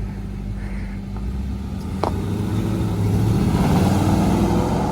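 Ford Mustang V8 engine running and growing louder as the car moves off, loudest about four seconds in, with a sharp click about two seconds in.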